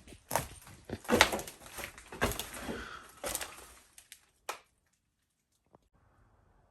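A string of irregular knocks and thumps for about three and a half seconds, a single knock a second later, then near silence.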